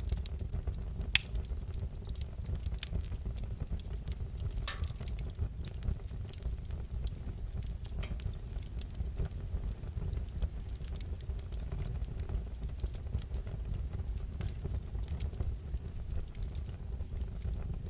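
Wood fire crackling: scattered pops and snaps, one sharper snap about a second in, over a steady low rumble.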